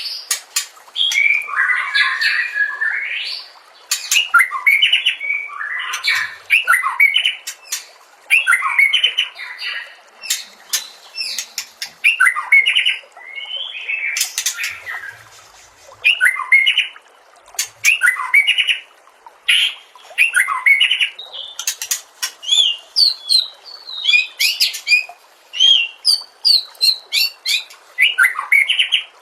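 White-rumped shama (murai batu) singing a fast, varied song of short whistled and chattering phrases, one after another about every second, mixed with sharp clicks.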